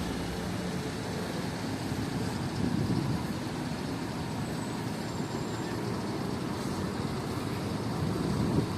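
City street traffic: a steady wash of passing cars, swelling a little about three seconds in and again near the end.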